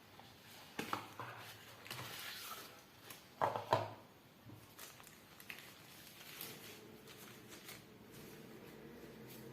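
Handling noises: a few short knocks and some rustling, the loudest a pair of knocks about three and a half seconds in. A faint steady hum starts about six seconds in.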